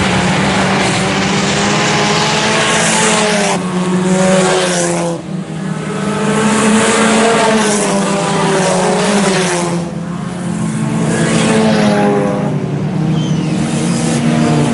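IMCA Sport Compact four-cylinder race cars running laps on a dirt oval, engine pitch rising and falling in waves as they power off the turns and pass by.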